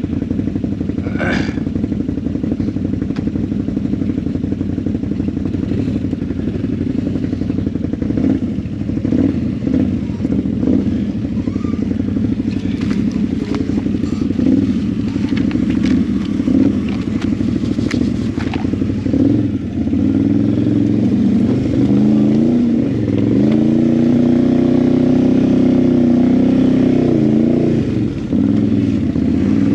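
ATV engine running at low trail speed, with scattered knocks and clatter from the machine working over rough ground. From about twenty seconds in the engine revs up and down several times.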